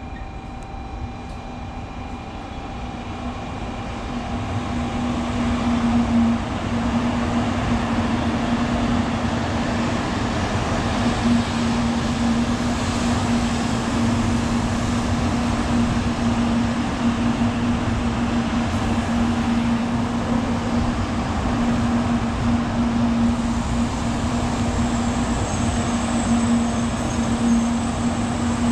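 An N700A Shinkansen train running slowly past along the platform track: a steady electric hum over the rumble of the cars. It grows louder over the first six seconds, then holds steady, with a thin high whine joining near the end.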